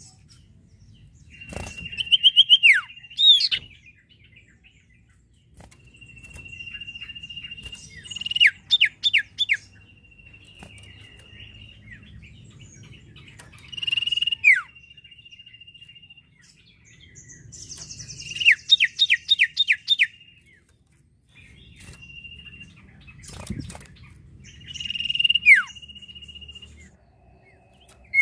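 Sirtu bird singing in repeated phrases: a long, steady high whistle followed by a quick run of sharp falling notes, about every five seconds.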